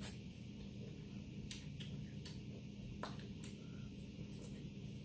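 Close-miked mouth sounds of biting kernels off a cob of corn and chewing them: scattered short, sharp clicks and smacks over a low steady hum.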